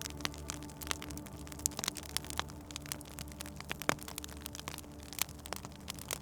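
Wood fire crackling with irregular small pops, a few louder ones scattered through, over a low steady hum.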